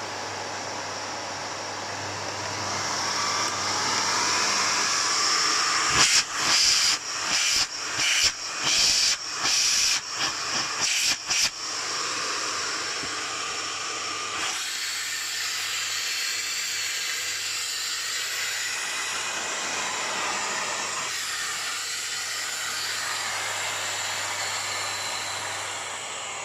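Miele Cat and Dog TT5000 2200-watt cylinder vacuum cleaner running with a steady rush of air and a motor whine that rises in pitch over the first few seconds. From about six to eleven seconds in, the sound cuts in and out in about ten quick surges before settling back to a steady run.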